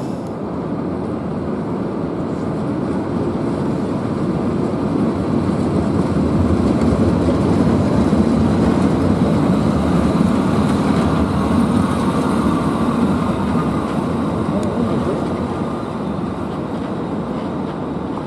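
A train rolling along the track with a steady rumble that grows louder toward the middle and then eases off.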